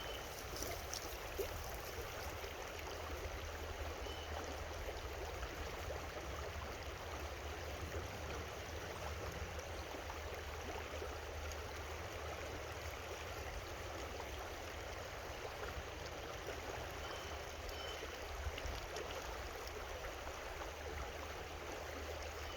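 Creek water flowing steadily, a continuous even rush with a low rumble underneath.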